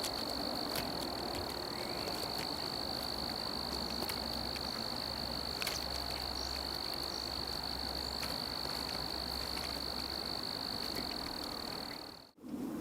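An animal's steady, high-pitched trill, held unbroken at one pitch, with a few faint clicks over it; it cuts off abruptly near the end.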